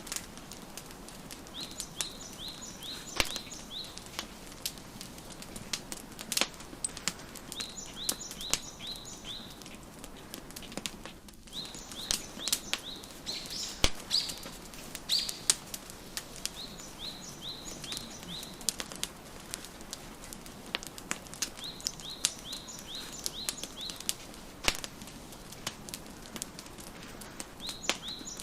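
Wood fire crackling, with a steady hiss and frequent sharp pops. Over it a songbird repeats a short phrase of about five quick, high chirps every five or six seconds.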